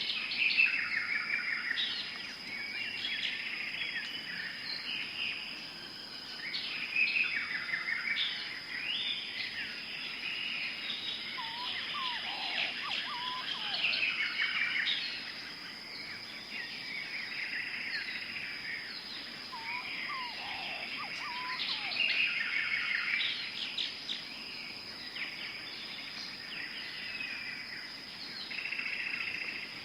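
Tropical forest chorus of many birds chirping and calling over one another, over a steady high-pitched insect drone. A lower, falling call comes twice, about twelve and twenty seconds in.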